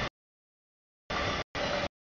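Double-stack intermodal freight train passing a grade crossing, heard only in short chopped bursts of wheel and rail noise cut off abruptly by dead silence: one burst ends at the start, then two come back to back about a second in.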